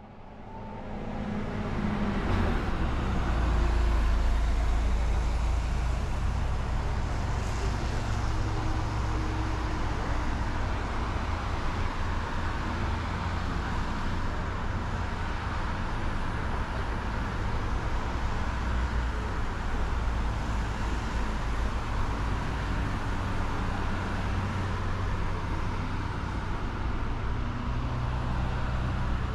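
A moving train's steady low rumble and running noise, swelling up over the first couple of seconds and then holding even.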